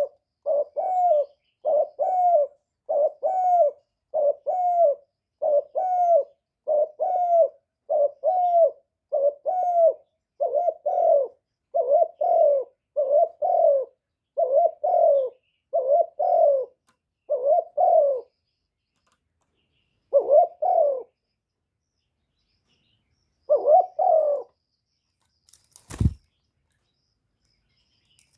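Spotted dove cooing: short, repeated coo phrases, about one a second, then two more phrases after pauses. A single sharp knock near the end.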